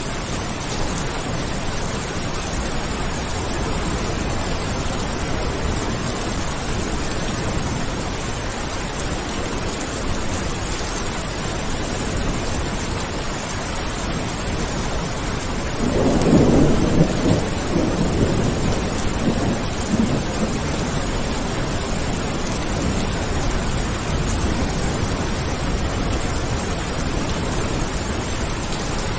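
Steady heavy rain falling, with a rumble of thunder about halfway through that swells and then fades over several seconds.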